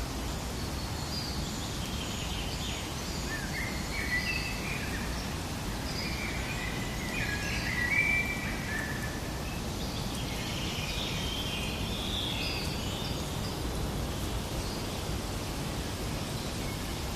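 Forest ambience: a steady low noise bed with birds giving short chirping calls on and off, in one cluster about a third of the way in and another just past the middle.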